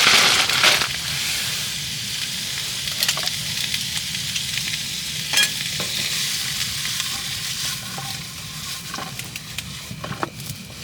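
Food sizzling in a hot pan, loudest for about the first second, then settling into a steadier, quieter sizzle with scattered small clicks.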